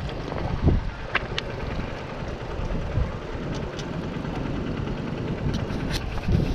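Honda XR150's small single-cylinder engine running at a low, steady idle as the dirt bike is paddled over river stones, with wind on the microphone. A few sharp ticks come about a second in and near the end.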